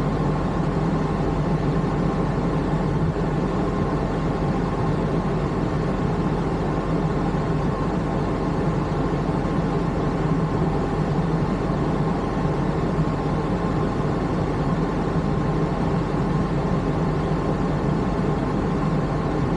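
Honda NSX NA1's 3.0-litre V6 engine with titanium muffler running steadily, heard from inside the cabin, with no revving or change in pitch.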